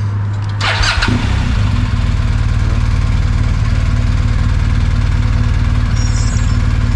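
Motorcycle engine starting about a second in, then idling steadily with an even low pulse.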